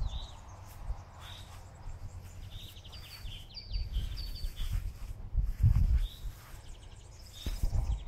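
Small birds chirping: short high notes about a second apart, with a quick run of notes about three seconds in. Under them is a low buffeting on the phone's microphone that swells about six seconds in.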